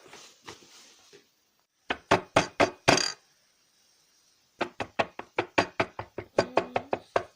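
Knocking on a door: a quick run of about five knocks, a pause of over a second, then a longer, faster run of about five knocks a second.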